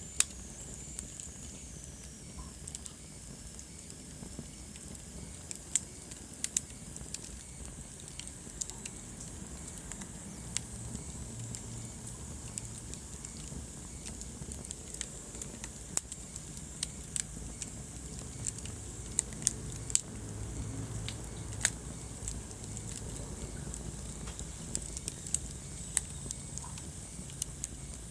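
Wood fire burning in a fireplace, crackling with irregular sharp pops over a steady low rumble. A faint high whistle glides downward near the start.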